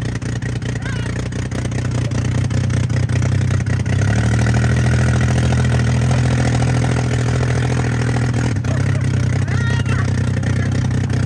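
Dirt bike engine running steadily under way, its drone stepping up about four seconds in and easing a little near the nine-second mark, with rattling clicks over it.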